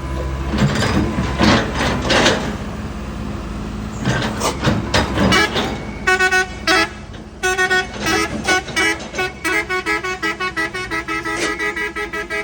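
A heavy vehicle's engine running, then a multi-tone vehicle horn sounding a run of short toots at changing pitches, starting about halfway through and getting quicker, about three a second, near the end.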